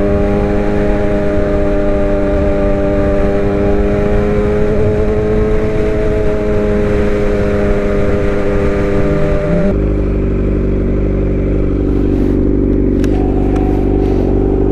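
Suzuki GSX-R750 inline-four with aftermarket headers, midpipe and M4 slip-on exhaust running at a steady cruise, with wind rushing over the helmet-mounted microphone. About ten seconds in the wind noise cuts out suddenly and the engine note carries on lower and steadier.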